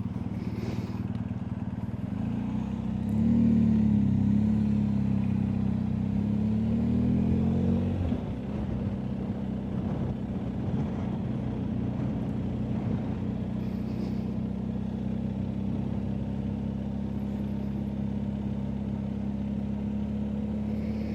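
BMW R1250GSA's boxer-twin engine heard from the bike. It pulls harder from about three seconds in, its pitch rising and falling through gear changes. About eight seconds in the load drops and it settles to a steady, even drone at cruise.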